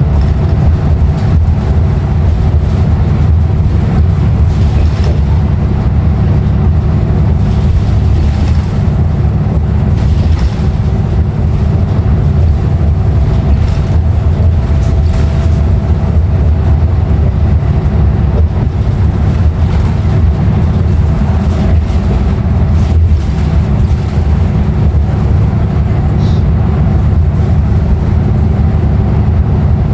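A 2016 Nova Bus LFS city bus under way, heard from inside: its Cummins ISL9 diesel engine and driveline run with a steady low drone over road noise, with no change in pitch.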